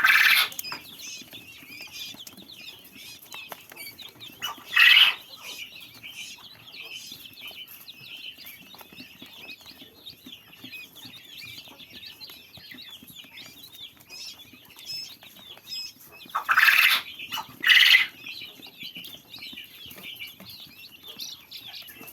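Baby birds cheeping continuously in a dense, high chatter, broken four times by much louder, harsher bursts: once at the start, about five seconds in, and twice close together near the end.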